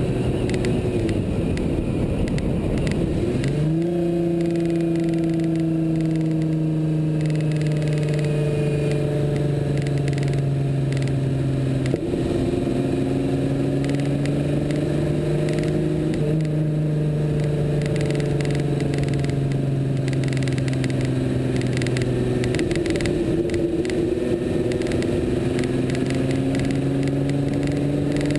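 Lamborghini Countach V12 engine running while driving, its note rising as it pulls harder about four seconds in, then shifting in pitch through the bends with dips around twelve and twenty-two seconds. A safety wire on the car adds its own noise over the engine.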